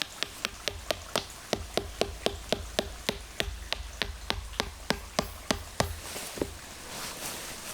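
Rapid, even tapping of something hard on something hard, about four taps a second, each with a short ring, stopping about six seconds in.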